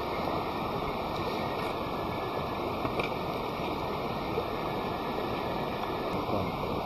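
A steady rushing outdoor noise, with a few faint ticks, one about three seconds in.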